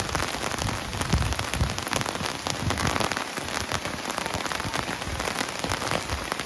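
Steady rain falling, a dense patter of many individual drops.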